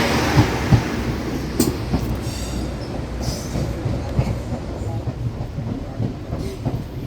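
Train running on the rails, its wheels clicking now and then over the track, with a low rumble that gradually eases.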